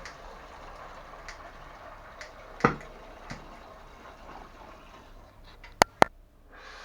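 Water dripping and trickling from a drained heating-main pipe over a steady noise, with one loud knock a little under three seconds in and two sharp clicks close together near the end.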